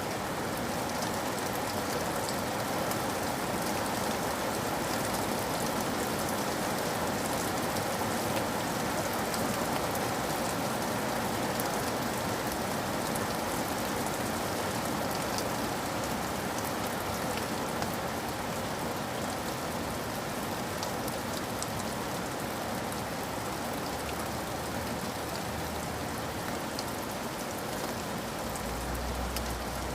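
Steady rain, with many small raindrops tapping throughout.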